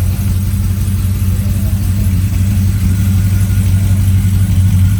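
Car engine idling with a steady low rumble, growing slightly louder toward the end.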